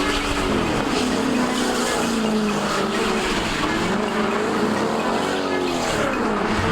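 A vehicle engine revving, its pitch rising and falling several times in a row.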